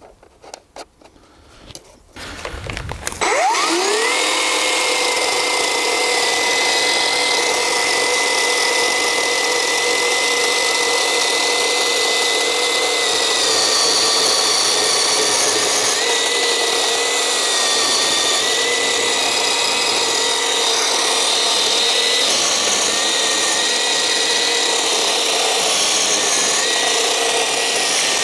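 Black+Decker GKC3630L20 36 V cordless chainsaw: a few handling clicks, then about three seconds in the electric motor whines up to speed. It runs steadily on, its pitch sagging a little now and then as the chain cuts into wood.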